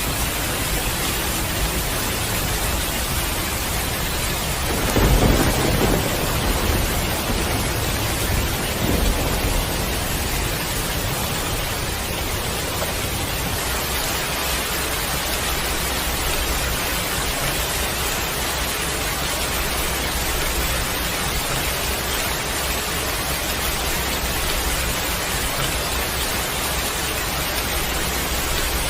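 Heavy rain pouring steadily, with a low rumble of thunder about five seconds in and a shorter, weaker one around nine seconds.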